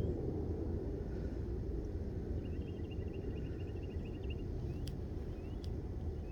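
Steady low outdoor rumble, like distant traffic, with faint high bird chirps and a short chattering trill about two and a half seconds in. Two sharp clicks come near the end.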